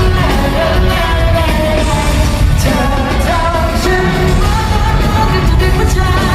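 A live pop band playing with a singer. The sung melody runs over a heavy, steady bass.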